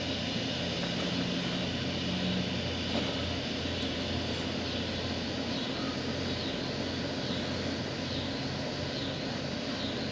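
2004 Toyota Corolla LE's 1.8-litre four-cylinder engine idling steadily, a constant low drone.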